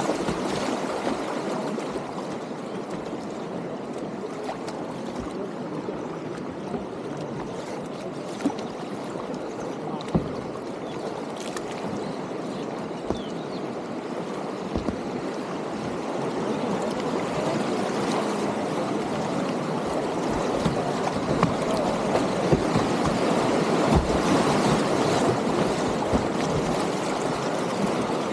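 Whitewater river rapids rushing steadily around a kayak, growing louder in the second half, with a few short sharp splashes.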